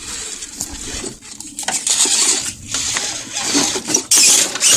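Axial SCX10 RC scale truck clattering and scraping over an obstacle, hard parts knocking on the course, with a louder scrape about four seconds in.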